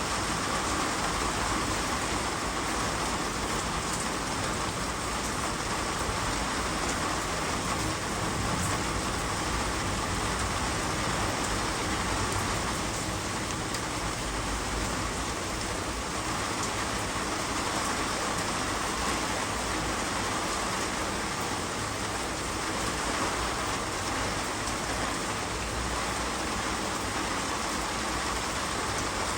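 Heavy rain falling steadily in a storm, an even, unbroken hiss of drops.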